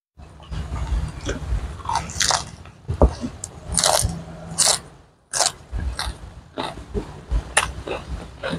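Close-miked chewing of a fresh lettuce-leaf wrap of raw vegetables: irregular wet, crisp crunches as the leaves are bitten and chewed, with a short pause about halfway.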